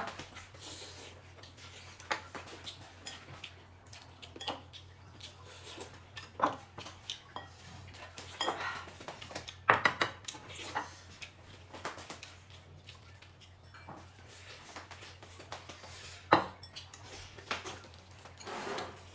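Tableware clinking during a meal: chopsticks and spoons knocking against bowls and plates in scattered, irregular clicks, a few of them louder.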